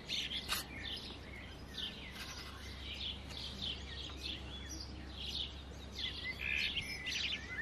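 Songbirds chirping and singing in the background, many short, quick calls throughout, over a low steady hum.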